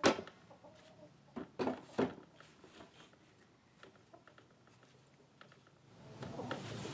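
A few sharp wooden knocks, one at the start and three more close together about a second and a half to two seconds in, from lumber being handled. From about six seconds in a steady shuffling noise comes up.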